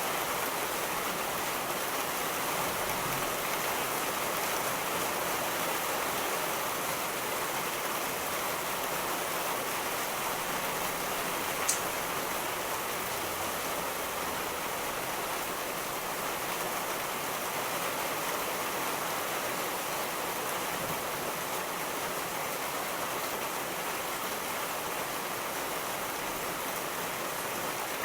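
Steady, even rainfall with no thunder, and a single sharp tick about twelve seconds in.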